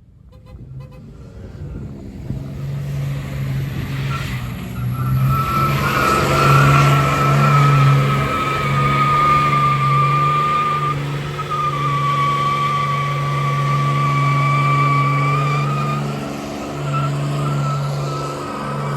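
Pickup truck doing a burnout: the engine is held at high revs while the tyres give a long, steady squeal. It builds up over the first few seconds and stays loud.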